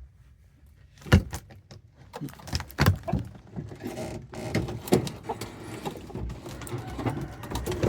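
Irregular knocking, clicking and clattering of hard objects being moved or handled, starting with a sharp knock about a second in and continuing as a string of smaller knocks and rattles.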